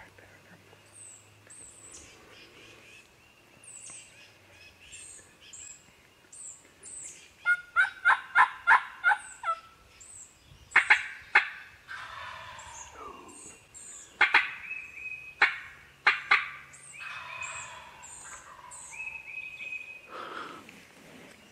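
Turkey calling: a quick run of about seven yelps about eight seconds in, followed by further sharp turkey calls, over songbirds chirping.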